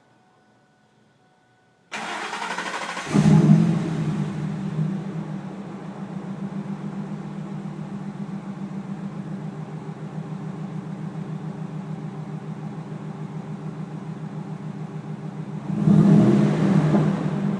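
2003 Ford SVT Lightning's supercharged 5.4-litre V8 through a Borla exhaust with Bassani mid pipes: cranked about two seconds in, it fires with a flare of revs and settles into a steady idle. It is revved once near the end.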